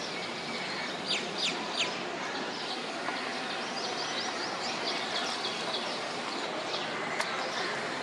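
Small birds chirping busily over a steady wash of outdoor background noise, with three louder, sharp falling calls in quick succession about a second in and a brief click near the end.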